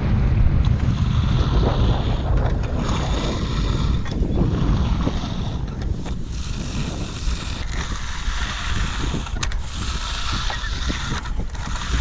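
Strong wind buffeting the microphone: a heavy, uneven low rumble with a rushing hiss over it, the rumble easing somewhat after about six seconds.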